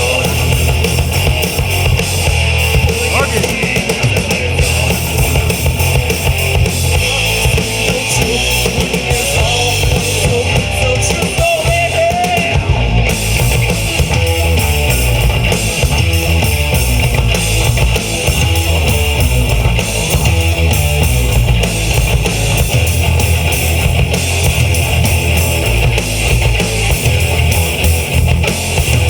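Live rock band playing a loud instrumental passage: distorted electric guitars, bass guitar and drum kit. A lead guitar line bends and wavers about twelve seconds in.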